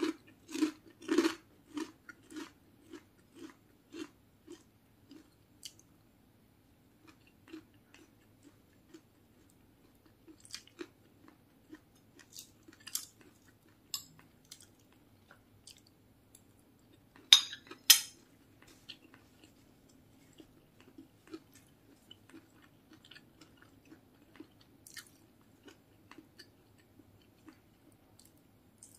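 A person chewing a mouthful of home-cooked food, with crisp fried bits among it. At first the chewing runs at about two chews a second, then it turns quieter and sparser. Two loud sharp crunches come close together a little past the middle.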